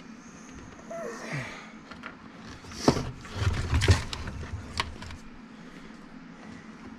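Clicks and sharp knocks of tools and saw parts being handled on a workbench, with a low thud between two loud knocks near the middle, over the steady hum of a shop fan.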